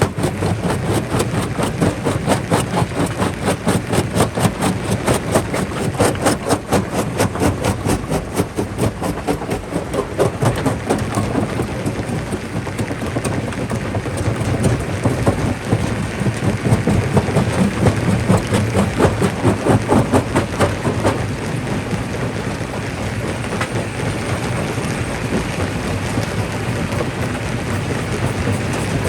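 Jaw rock crusher crushing stone: a dense, irregular clatter of rocks knocking and cracking between the jaws over the steady low drone of the machine. The clatter thins out in the last third.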